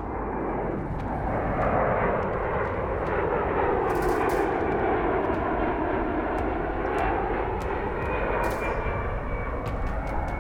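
Engines of a large military aircraft droning as it flies past, swelling about a second in and holding, with a thin high whine that slowly falls in pitch near the end.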